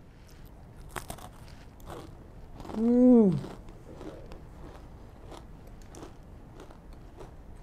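A bite into a hard, crunchy sesame caak ring cracker, a sharp crack about a second in, followed by crisp crunching as it is chewed with the mouth closed. About three seconds in, a short hummed "mmm" that rises and falls in pitch is the loudest sound.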